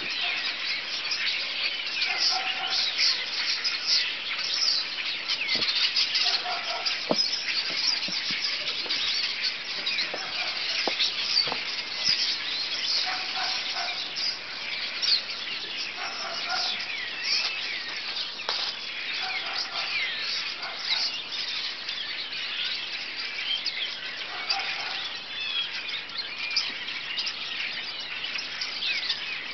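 A large flock of birds perched on telephone wires and a pole, chirping and chattering nonstop in a dense, overlapping din, with short lower calls breaking in every few seconds.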